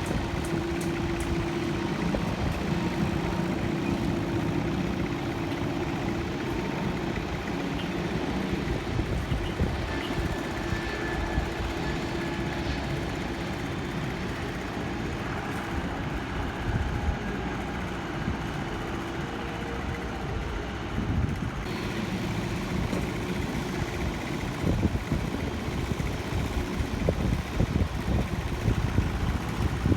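Steady low engine rumble, with faint steady tones in the first few seconds and uneven low thumps growing near the end.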